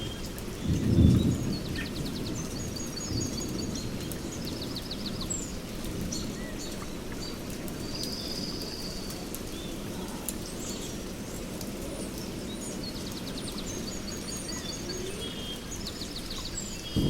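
Small songbirds chirping and giving short repeated trills over a steady hiss of rain, with a low rumble of thunder about a second in.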